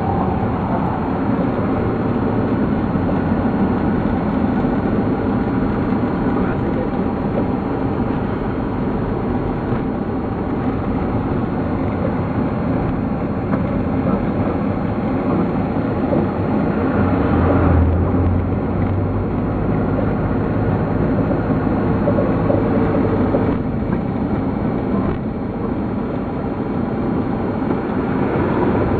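Steady engine and road noise of a vehicle driving, with a deeper low hum swelling briefly about two-thirds of the way through.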